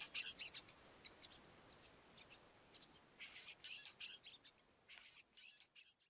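Cape sugarbird singing faint, high trills in short bursts, with scattered single notes between them and the densest bursts about three to four seconds in.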